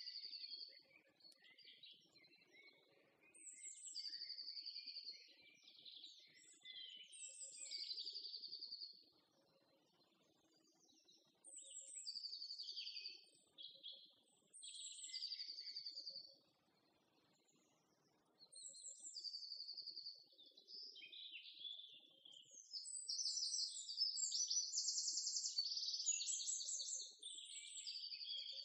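Songbird singing in short, high whistled phrases that come every few seconds, running into a longer, busier stretch of song near the end.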